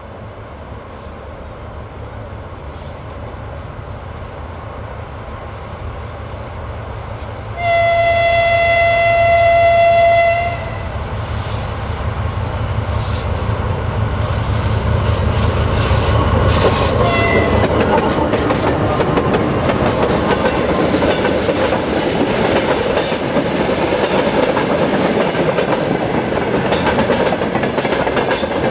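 Soviet-built 2TE10L twin-section diesel locomotive, with two-stroke 10D100 diesel engines, approaches under power with its engine rumble growing louder. About eight seconds in it sounds its horn in one long steady blast of nearly three seconds, with a short second toot a few seconds later. It then passes, and freight wagons roll by with a clickety-clack of wheels over rail joints.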